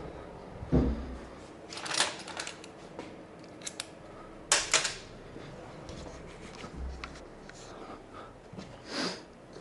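Handling noises: a dull thump, then several short scraping rustles and small clicks of parts or tools being handled.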